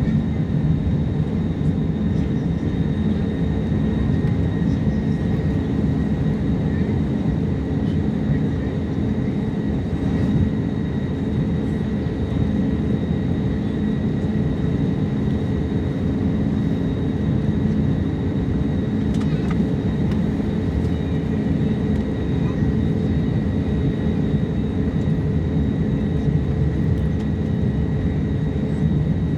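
Airliner noise as the plane comes in to land: a steady low rumble of engines and airflow with a faint steady high whine, unchanging throughout.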